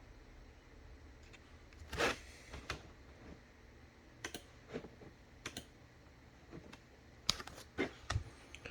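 Scattered light clicks and taps of trading cards and hard plastic card holders being handled on a table, about eight in all, the loudest about two seconds in and a quick cluster near the end.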